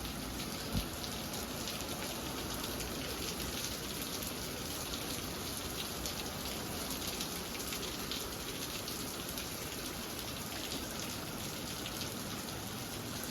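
Steady moderate downpour of rain: an even hiss of many drops falling. A single soft thump just under a second in.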